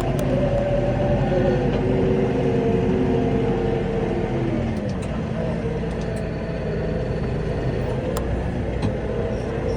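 New Holland T5.130 tractor's diesel engine running steadily under load, pulling a four-furrow plough. Its pitch drops a little about halfway through.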